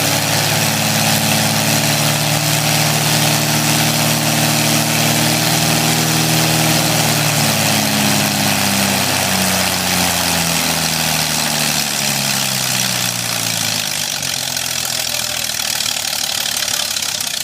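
Corvair air-cooled flat-six aircraft engine running on the ground, turning the propeller, with a strong rush of propeller and exhaust noise. From about eight seconds in the engine speed falls steadily, settling to a slower run by about fourteen seconds as it is throttled back.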